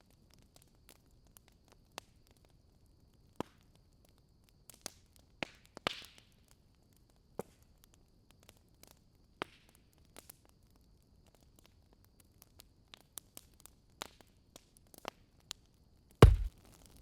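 Wood fire crackling in a fireplace: scattered sharp snaps and pops at irregular intervals. Near the end there is one heavy thud, much louder than the crackles.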